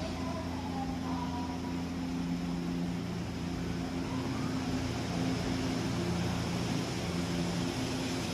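Odakyu electric train running at the platform: a steady mechanical hum over a noisy rumble, with several low held tones.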